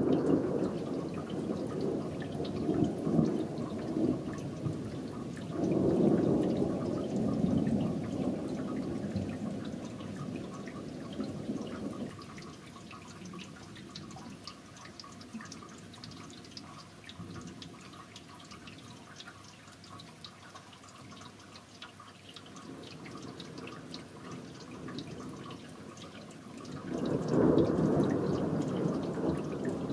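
Rolling thunder rumbling low and dying away slowly, a fresh roll swelling about six seconds in and another near the end, over steady rain dripping and pattering.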